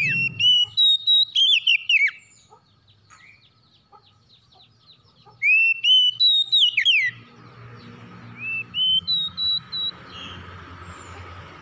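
Oriental magpie-robin (kacer) singing: loud phrases of clear whistled notes that slide up and down, a few seconds of near pause with faint chirps, then another loud phrase and softer notes near the end. A low steady hum and faint steady tone sit underneath in the later part.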